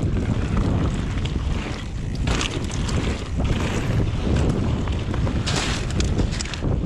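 Wind buffeting the microphone while riding a mountain bike along a trail, with a steady low rumble and a few short rushing bursts.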